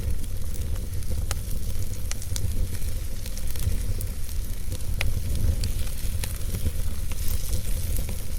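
Wood logs burning in a fireplace, crackling with scattered sharp pops about once a second over a steady low rumble.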